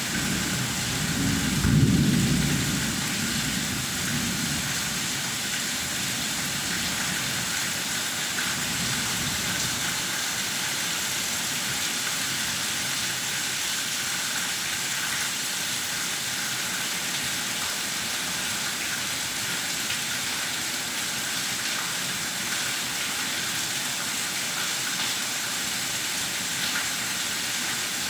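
Heavy rain falling, a steady even hiss, with a low rumble of thunder about two seconds in that fades over the next second or so.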